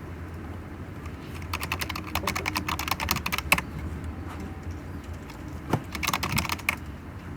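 Typing on a computer keyboard in two quick bursts of key clicks, the first about a second and a half in and the second near the end, over a steady low hum.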